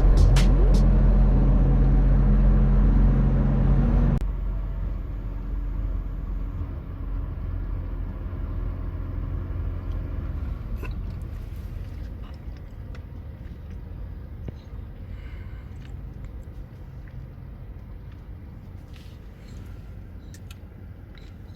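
Toyota Tacoma pickup driving, with a low steady road and engine rumble that slowly grows quieter. Background music stops abruptly about four seconds in.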